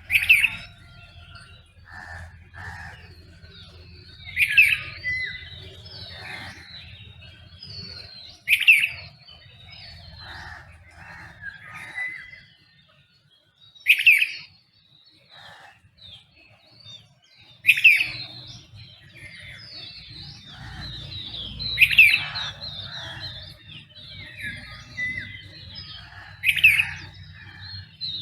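Dawn chorus of birds: one bird repeats a loud, short call about every four seconds, seven times, over many softer chirps and trills from other birds.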